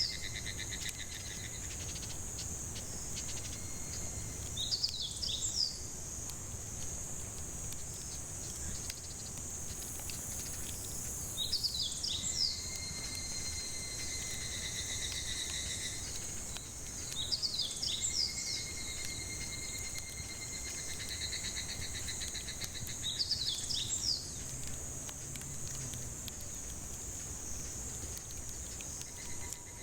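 Steady high-pitched chorus of cicadas, with a bird singing about every six seconds: a short burst of quick sweeping notes, then a trill held for a few seconds.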